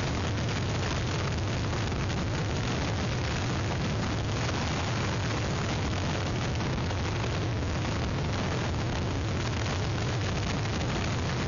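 Hurricane wind and rain on an outdoor webcam's microphone: a steady rushing noise with a heavy low rumble of wind buffeting the mic.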